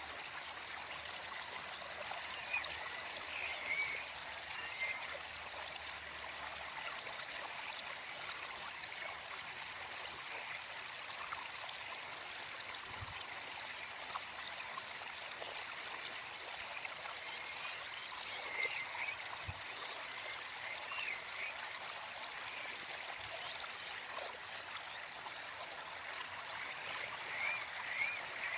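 Gentle forest stream flowing and trickling steadily, with small birds chirping in short bursts a few times in the background.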